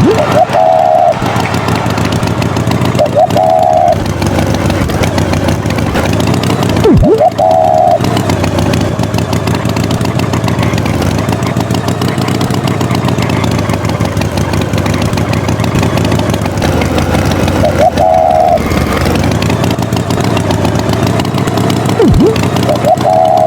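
Tractor engine running steadily, with short higher-pitched bursts every few seconds and a few quick falling whistle-like glides.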